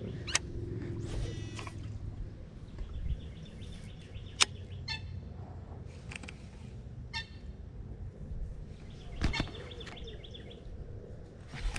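Birds chirping and giving short high trills at intervals, with two sharp clicks, about half a second and about four and a half seconds in, over a low steady rumble.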